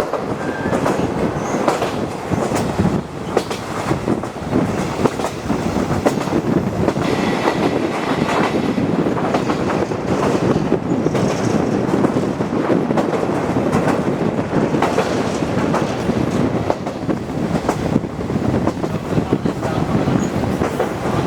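Running noise inside a locomotive-hauled passenger coach: the steady rumble of the wheels with the rail-joint clickety-clack heard throughout, and a brief faint squeal of the wheels now and then.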